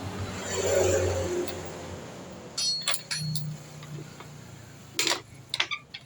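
Motorcycle engine running low and fading away over the first two seconds, then a few sharp metallic clinks.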